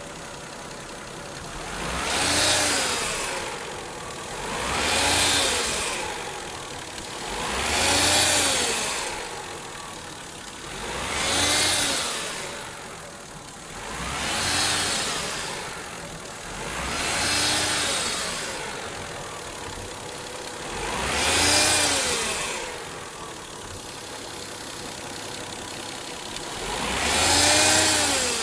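Mazda Xedos 9 engine blipped up from idle and back down eight times, about every three seconds, with a hissing whistle that swells with each rev. The owner calls this an odd whistling on acceleration that is strongest after a cold start and comes back at high revs.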